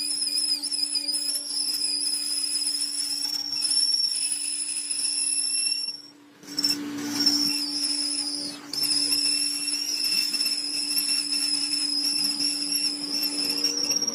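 Steady high-pitched metal-on-metal squeal of workshop machining on the tractor axle, over a low steady hum. It stops briefly about six seconds in, with a short rough burst as it starts again.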